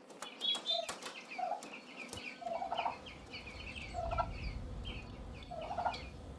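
Young broiler chickens and turkey chicks peeping in a quick, continuous patter, with a lower short call about five times.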